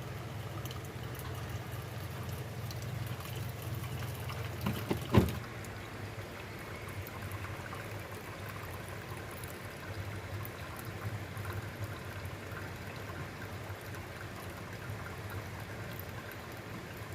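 River water flowing steadily, with a single sharp knock about five seconds in.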